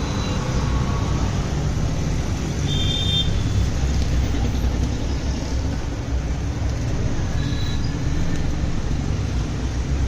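Steady low rumble of road traffic, with two brief faint high-pitched tones, like distant horns, about three seconds in and near seven and a half seconds.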